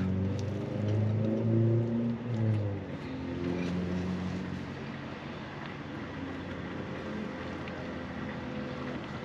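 A heavy truck's engine running close by, its pitch shifting up and down for the first few seconds, then settling into a quieter steady hum.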